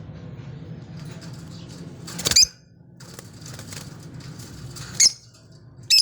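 Lovebirds giving short, shrill, high-pitched calls: loud ones about two seconds in, again about five seconds in, and a third at the very end, with faint chattering between them over a low steady hum.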